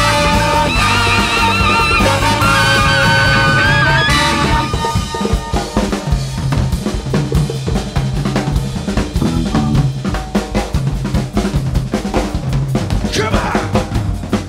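Live big-band jazz: the horns and lead lines play over the rhythm section for about the first four seconds, then drop out. That leaves the drum kit and bass playing on, with a brief upward swoop near the end.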